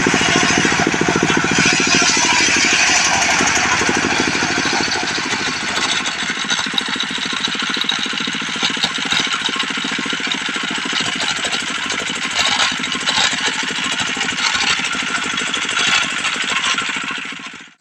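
Diesel engine driving a mobile sawmill's circular saw as it rips a log lengthwise. The engine fires in a fast, even rhythm under the steady hiss of the blade cutting.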